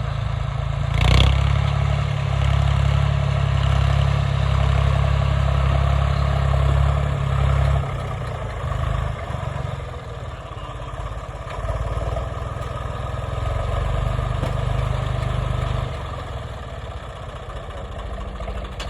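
Swaraj 855 tractor's diesel engine running with a steady low drone, loudest for the first eight seconds and again from about twelve to sixteen seconds, with one sharp knock about a second in.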